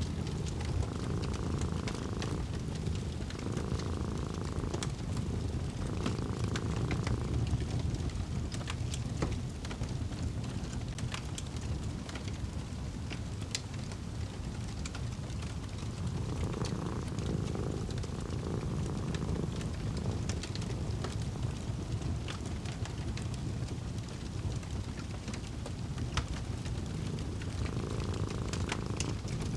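Wood fire crackling with scattered small pops over a steady low rumble. A cat purrs in repeating swells of a second or two, pausing for several seconds in the middle and resuming near the end.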